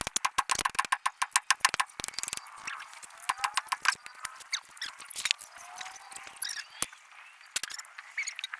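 A fast, even run of sharp metallic clicks, about nine a second, for the first two seconds or so, then scattered clicks and knocks, as from hand tools at work on the excavator's gearbox. Faint chirping is heard now and then.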